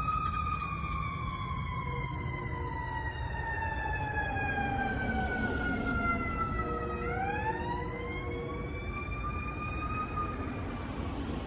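Fire apparatus siren on a slow wail: one long glide down in pitch over about seven seconds, then a sweep back up and the start of another fall, over low vehicle rumble.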